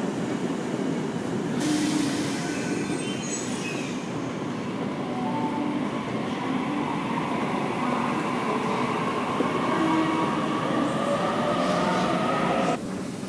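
Train running through the station, a steady rumble with a whining squeal that builds through the second half and cuts off suddenly near the end.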